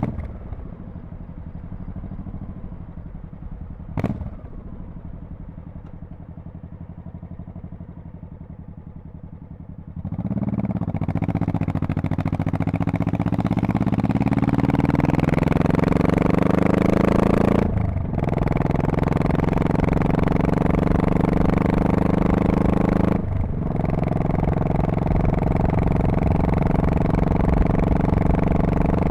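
Honda Shadow Spirit VT1100C V-twin motorcycle idling at a stop, with one sharp click about four seconds in, then pulling away hard with rising engine pitch. It shifts up twice with short breaks in power and settles into a steady cruise.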